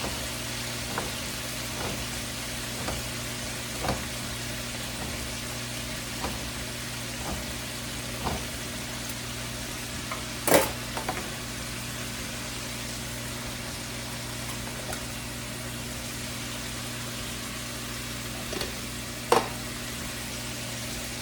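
Chicken sizzling in a frying pan over a steady low hum. Light clicks about once a second through the first eight seconds as a can of beans is opened with a can opener, and two louder clatters, one about halfway through and one near the end.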